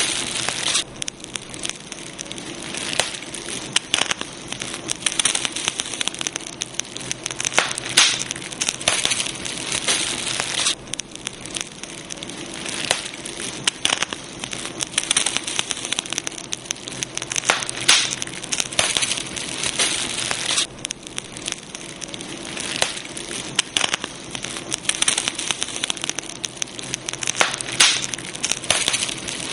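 Campfire burning steadily, with dense crackling of burning wood and frequent sharp pops over a soft hiss.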